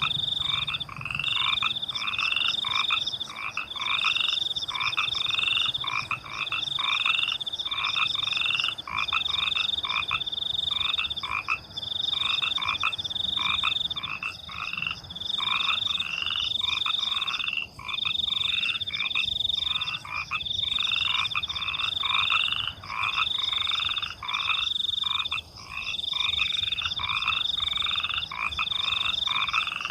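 A chorus of frogs croaking in quick, repeated calls, two or three a second, over crickets chirping in a high trill that comes in pulses about a second long with short gaps.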